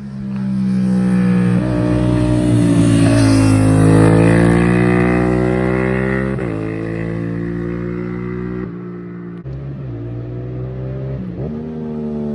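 2014 Yamaha MT-07's 689 cc parallel-twin engine through a Mivv Delta Race exhaust, revving under load. Its pitch dips and climbs again in the first half. Abrupt pitch changes about six, nine and eleven seconds in sound like gear changes.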